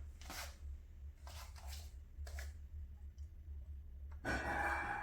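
Wood fire burning hard in a corner fireplace's cast-iron firebox, crackling with scattered sharp pops over a steady low rumble, the draft running strong; a louder hiss rises about four seconds in.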